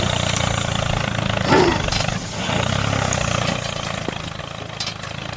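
Tractor engine idling steadily, with a short falling cry about a second and a half in.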